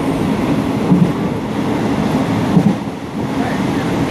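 Express train 83 running at speed, heard from inside a passenger carriage: a steady heavy rumble of wheels on the rails, with two louder knocks about one second and two and a half seconds in.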